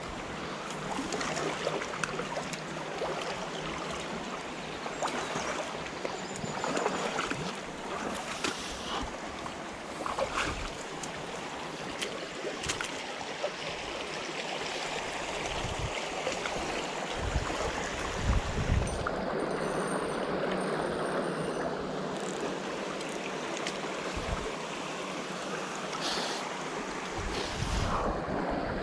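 Small river running, a steady rush of water, with scattered clicks and knocks and a few low thumps.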